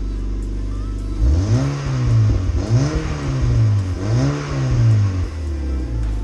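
Mazda MX-5 NC's four-cylinder engine, breathing through a K&N cold air filter and an unbranded aftermarket exhaust back box, idling, then revved three times in a row starting about a second in, each rev rising and falling in pitch, before it settles back to idle.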